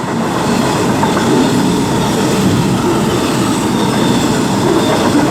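A train running through the station at close range, its wheels rumbling and clattering steadily over the rails.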